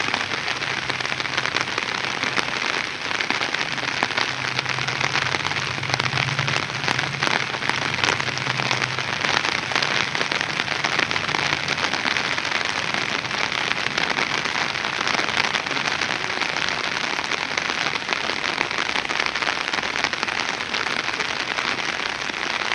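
Heavy rain falling steadily: a dense hiss full of close individual drop hits, with a faint low hum underneath for the first half.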